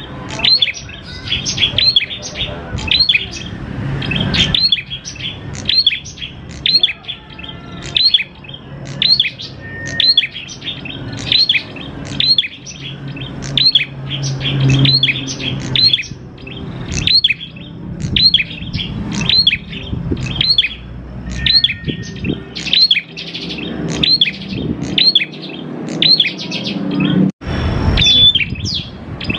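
Prenjak klawu singing its rapid, repeated call: short, sharp notes about twice a second, over and over without a break, with a brief dropout near the end.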